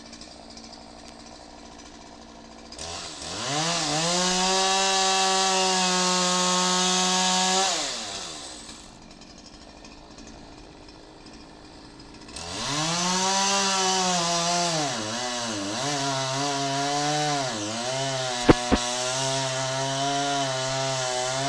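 Two-stroke chainsaw idling, then revved up and held at full speed for about five seconds before dropping back to idle. About twelve seconds in it revs up again and stays at high speed with its pitch dipping and recovering again and again, as it does when the chain bites into wood, with two sharp knocks near the end.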